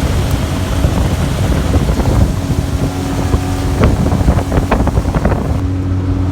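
Outboard motor of a fishing boat running under way, a steady drone with wind buffeting the microphone.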